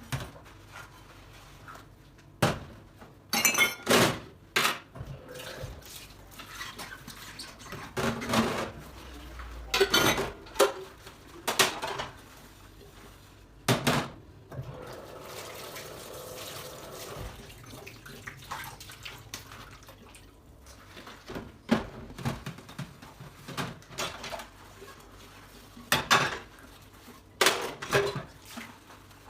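Dishes and cutlery clinking and knocking as they are handled and set down, in irregular bursts, with a few seconds of running water about halfway through.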